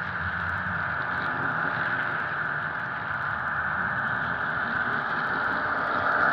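HO-scale model diesel locomotive's Soundtraxx Tsunami sound decoder playing a steady EMD diesel engine sound through the model's small speaker, mixed with the train's running noise on the track.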